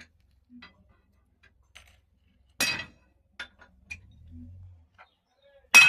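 Metal parts clinking in Hydra crane repair work: two sharp metallic knocks about three seconds apart, the second near the end, with a few faint ticks between.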